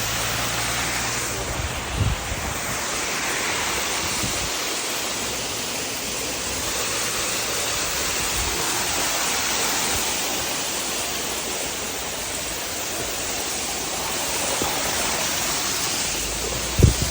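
Steady rush of falling water from a mountain stream or waterfall, with a couple of brief knocks.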